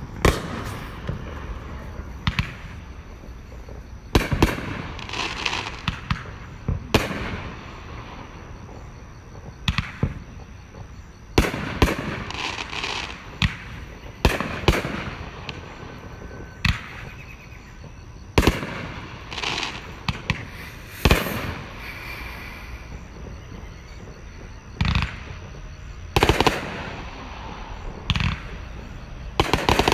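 Aerial fireworks display: a long irregular series of shell bursts, sharp bangs every second or two, some followed by crackling, heard through a phone's livestream.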